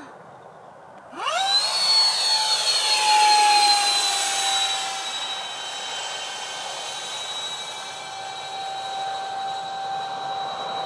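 Freewing Su-35 model jet's twin electric ducted fans spooling up sharply on the throttle about a second in, then holding a steady high-pitched whine.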